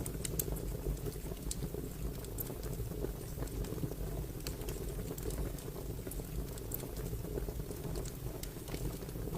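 Fire crackling: a steady low rumble of the burning with many irregular sharp pops and snaps.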